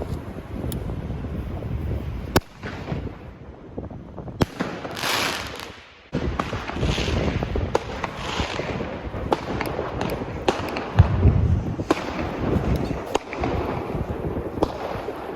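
Weco Sky Shots fireworks launching and bursting: several hissing whooshes and a scattered run of sharp bangs and pops, with a low rumble of wind on the microphone underneath.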